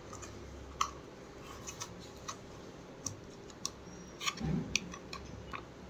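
A packet of cheese being opened by hand: a few small, irregular clicks and crinkles, with a slightly louder handling noise about four and a half seconds in.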